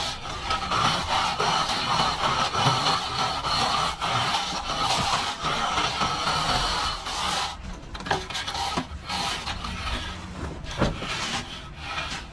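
A hand tool scraping and rubbing over plaster, steady for about seven seconds, then lighter scrapes with a few sharp taps.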